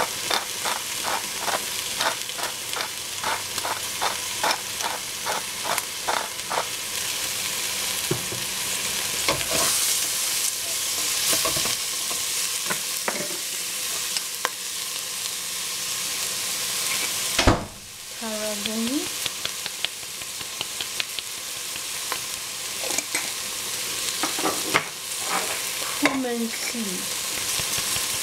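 Minced pork and ginger sizzling in a stainless steel pot while a wooden spatula stirs and scrapes it. Quick regular scraping strokes for the first several seconds, a single sharp knock a little past halfway, then a few short squeaks of the spatula against the pot over the steady sizzle.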